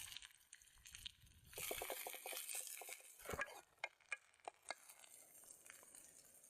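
Irregular small clicks and knocks with bursts of rustling or scraping noise, as of objects being handled.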